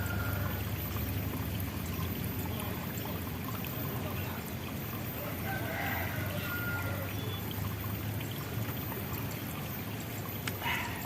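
Steady running water, trickling and flowing without pause. A brief chirp-like call comes about halfway through, and a short knock near the end.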